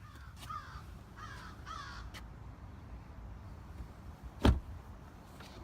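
Three short, harsh bird calls in the first two seconds. About four and a half seconds in comes a single loud thud of a car door being shut.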